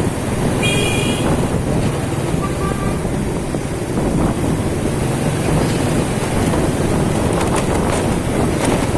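Wind buffeting the microphone of a moving motorcycle, over its engine and surrounding street traffic. Two brief beeps sound in the first three seconds, the second lower than the first, likely horns.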